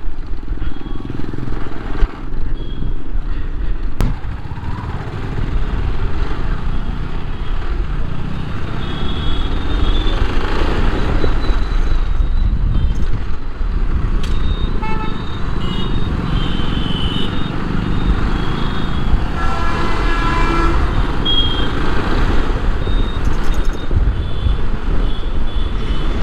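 Riding a motorcycle through heavy city traffic: a steady engine and wind rumble, with other vehicles' horns honking over and over and a longer horn blast about twenty seconds in.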